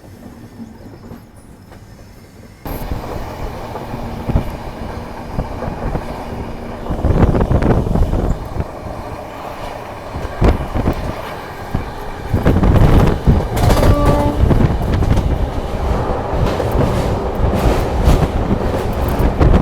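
Express train running on the track, wheels clattering and knocking over the rails above a steady rumble. The rumble gets suddenly much louder about three seconds in.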